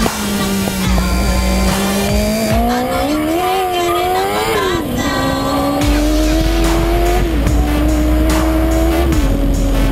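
Scorpion P6's turbocharged engine pulling hard under acceleration. Its pitch climbs and drops sharply three times, about five, seven and nine seconds in, as it shifts up.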